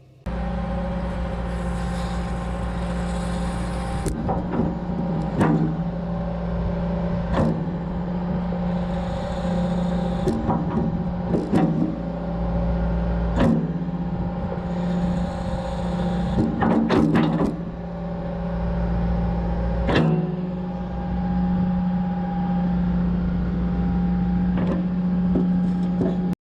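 John Deere 120 excavator running steadily while its long-reach arm is worked, with sharp metal clanks every second or two. It is being cycled to test a repaired hydraulic cylinder for leaks.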